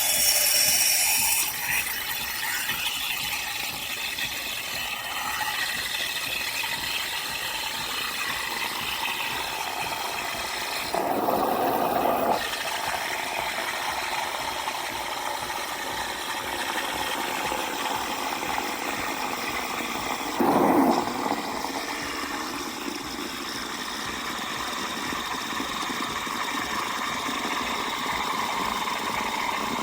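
Café Affetto automatic espresso machine's steam wand steaming milk in a cup, a steady hiss. There are two louder bursts, one about 11 seconds in lasting about a second and a half, and one shorter burst about 21 seconds in.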